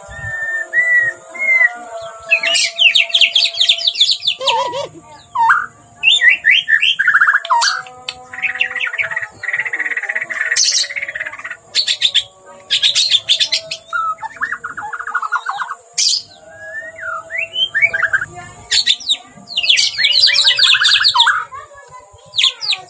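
A white-rumped shama (murai batu) singing a loud, varied song of rapid trills, whistled glides and buzzy phrases, in bursts of a second or two with short pauses between. It is in full, vigorous song and worked up, what bird-keepers call gacor and emosi.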